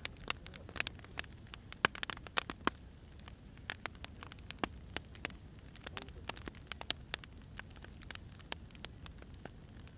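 Wood fire crackling and popping: irregular sharp pops, thicker in the first few seconds, over a low steady rumble of the burning logs.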